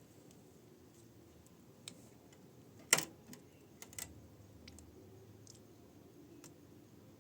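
Hard objects being handled: scattered light clicks and one sharp knock about three seconds in.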